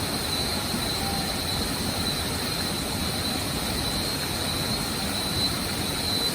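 Waterfall rushing, a steady even roar of falling water, with a thin steady high tone over it.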